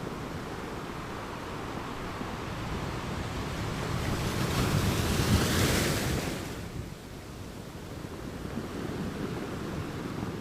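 Ocean surf: a wave swells, breaks loudest about halfway through, then falls away quickly into a softer wash.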